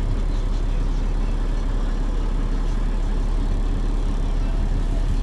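2017 Mack Granite GU4 packer garbage truck's engine idling steadily.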